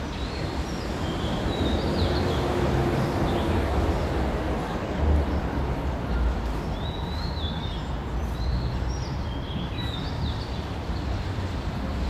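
Small birds chirping in a tree, short quick sweeping notes in two spells, over a steady low rumble.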